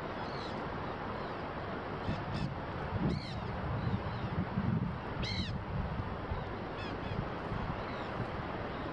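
About ten short bird calls, each a brief arching note, scattered through, the loudest about five seconds in, over a steady wash of wind and distant highway traffic.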